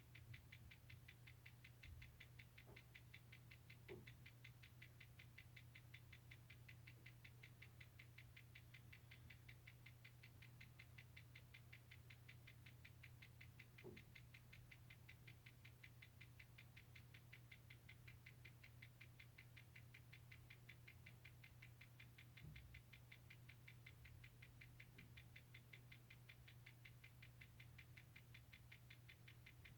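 Mini washing machine running faintly: a steady motor hum with a fast, even ticking and a few soft knocks.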